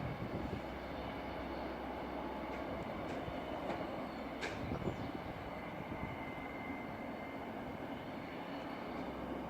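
A train running on the line: a steady rumble with a few light clicks, one sharp click about halfway through, and a faint high squeal in the second half.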